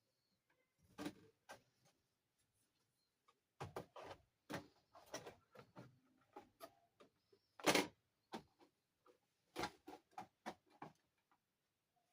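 Plastic dollhouse parts clicking and knocking as they are handled and fitted together: a run of irregular sharp taps, with one louder knock about two thirds of the way through.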